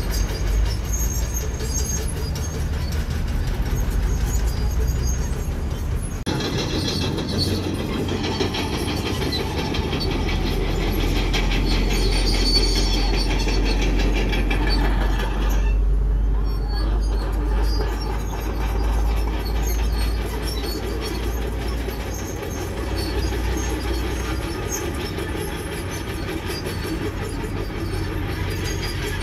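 Komatsu crawler bulldozer working: its diesel engine runs under a low rumble while the steel tracks clank rapidly and steadily.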